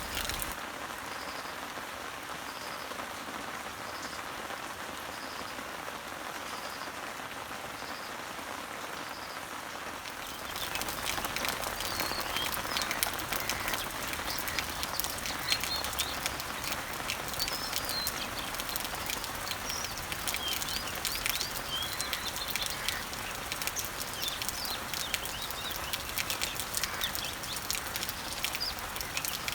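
Rain falling on garden leaves and trees, a steady patter, with birds chirping. For the first ten seconds a bird repeats one short high note about every second and a half; then the rain grows louder with many distinct drops hitting leaves, and scattered short chirps continue.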